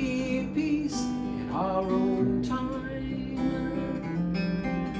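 Acoustic guitar strummed as accompaniment to a song, with a sung voice gliding between notes in the first couple of seconds.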